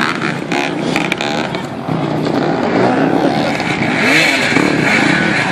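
Several motocross motorcycle engines revving at once, their pitches rising and falling and overlapping, growing a little louder about four seconds in.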